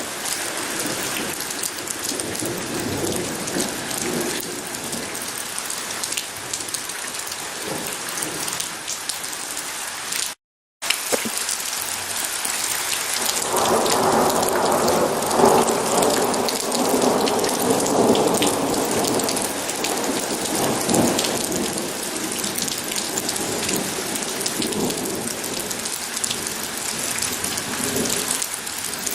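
Steady heavy rain falling, with a long rolling rumble of thunder swelling up about halfway through and fading over several seconds. About ten seconds in, the sound cuts out completely for a split second.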